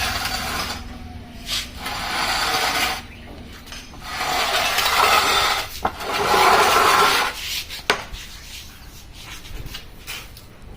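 Removed steering rack from a 2019 Maruti Suzuki Wagon R being worked by hand: three rasping, scraping strokes of a second or so each, with a couple of sharp clicks. The rack is worn out, with a bad bearing, damper kit and rack bushings and a lot of play.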